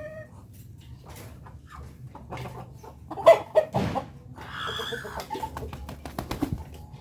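Domestic chickens clucking in a coop, with scattered taps and knocks and one loud knock about three seconds in.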